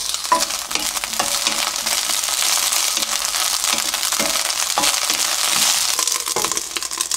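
Shishito peppers sizzling in oil in a frying pan as they are stirred with a wooden spatula, with a few knocks as the glass lid is lifted off and set back on.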